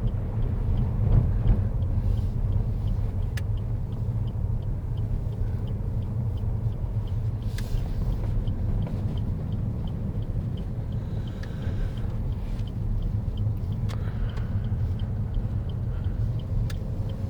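Inside a car's cabin: steady low engine and road rumble as the car drives at low speed, with a light, evenly spaced ticking that fits the turn indicator.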